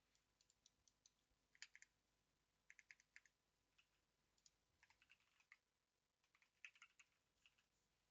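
Faint computer keyboard typing: irregular keystrokes in short runs, with brief pauses between them.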